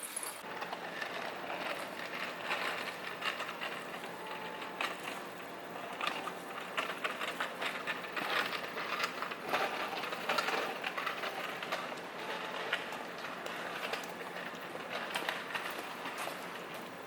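Seibu Ikebukuro Line electric train passing over a level crossing, its wheels clattering on the rails as a steady rushing noise full of quick knocks.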